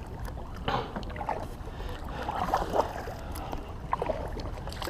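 Kayak paddle strokes in the water: soft, irregular splashes and drips every second or so over a low steady rumble.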